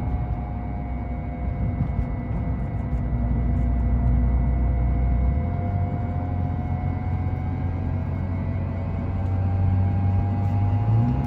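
Ford Explorer under acceleration: a steady low drone that steps up in pitch about five seconds in, with a faint steady whine above it. This is the noise the owner hears from the vehicle when accelerating, its cause unexplained.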